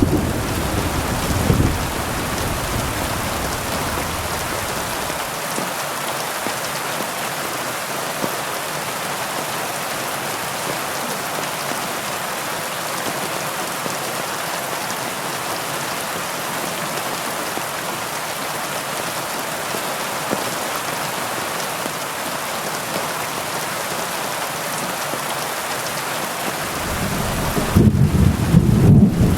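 Heavy rain falling steadily, an even hiss. Low thunder rumbles in the first two seconds and rolls in again near the end.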